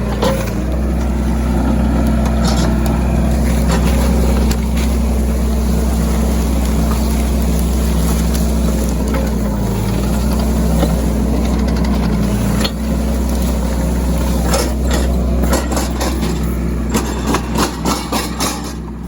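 Mini excavator's diesel engine running steadily, with a quick run of knocks and clanks near the end.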